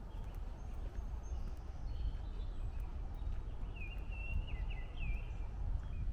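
Songbird singing a short phrase of whistled, slurred notes about four seconds in, over a steady low rumble of distant highway traffic and the walker's footsteps on the trail.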